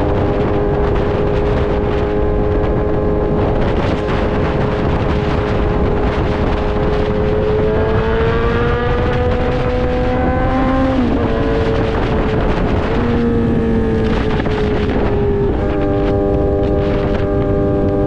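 Kawasaki Z900's inline-four engine through an Austin Racing full exhaust, holding steady revs under way. The pitch climbs from about 8 seconds in and drops sharply at a gear change just after 11 seconds, then shifts again twice near the end, over a steady rush of wind noise.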